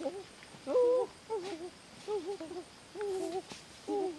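A bird's hooting call: short, wavering notes repeated roughly once a second.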